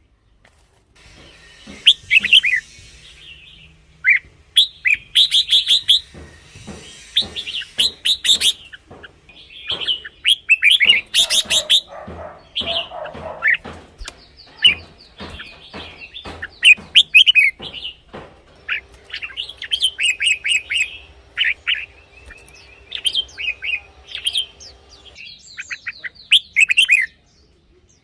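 Red-whiskered bulbul singing: short, bright whistled phrases repeated over and over with brief pauses between them.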